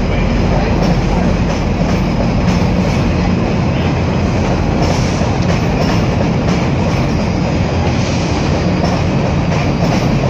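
GO Transit bilevel passenger coaches rolling along the track: a steady rumble of wheels on rails with a low, even hum underneath.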